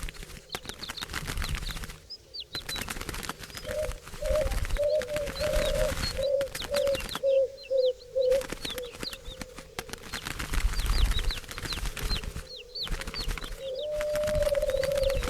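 A flock of birds with wings fluttering in many quick ticks, and repeated short high chirps that fall in pitch. A low wavering cooing call runs through the middle, and a longer one comes near the end.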